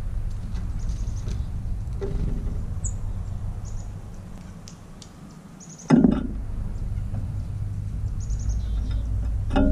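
Small birds giving short, high chirps now and then over a steady low rumble. A sharp thump about six seconds in, and another near the end.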